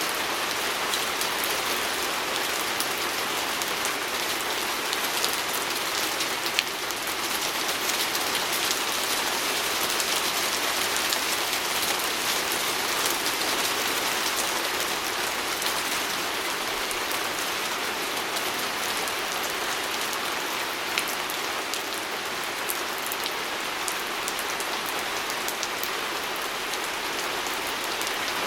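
Steady rain with many small drops ticking against a window pane.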